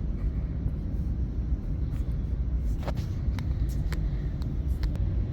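Steady low rumble of a large indoor exhibition hall's background noise, with a few faint clicks and taps about halfway through.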